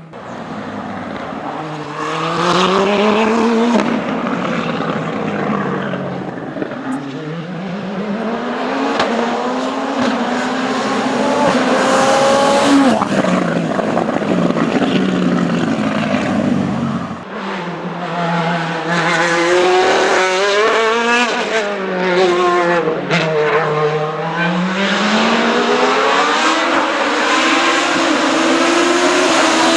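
Hill-climb race car engines at full effort, the revs climbing through the gears and falling back again and again on lift-off and downshifts. About two-thirds of the way through the sound breaks off abruptly and picks up again.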